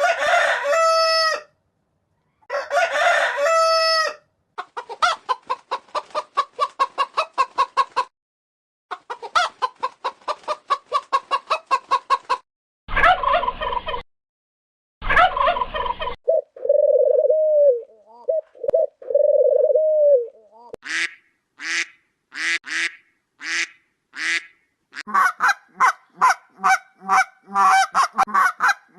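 Recordings of several different domestic fowl, one after another with short gaps. A rooster crows twice at the start, followed by runs of rapid clucking and other repeated barnyard bird calls.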